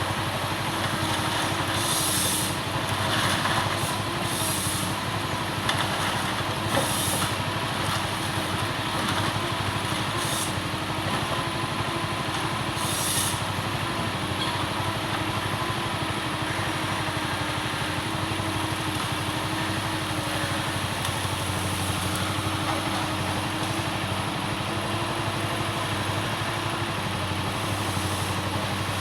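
Forest harvester's diesel engine running steadily as the machine works eucalyptus, with several short bursts of hissing noise in the first half.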